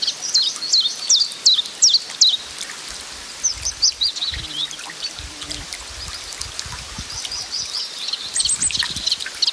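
Small birds calling: a run of high, sharp down-slurred notes, about two a second for the first couple of seconds, then a looser mix of chirps and calls.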